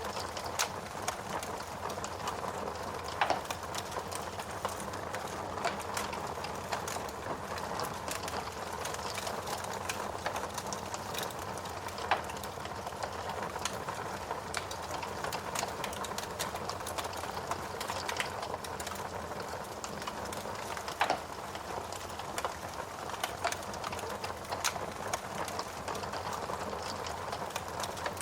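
Wood fire burning in a fireplace: a steady rushing hiss with frequent sharp crackles and pops from the burning wood, a few of them louder than the rest.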